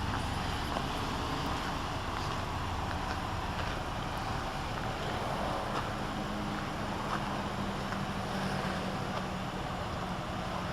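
Wind rushing across the microphone over the low steady hum of a 2007 Hummer H3's 3.7-litre engine running.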